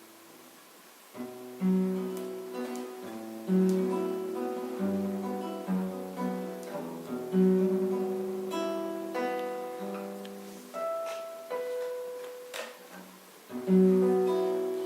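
Solo acoustic guitar playing the song's closing instrumental passage: after a fading chord, separate plucked notes and chords start about a second in, each ringing and dying away, ending on a loud chord near the end.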